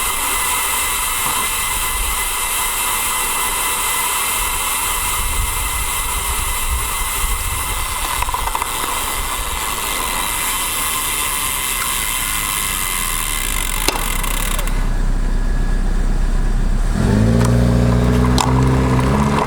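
Steady wind and tyre noise of a road bike ridden through traffic. Near the end the hiss drops away and a motor vehicle's engine hum comes in, rising slightly in pitch at first and then holding steady.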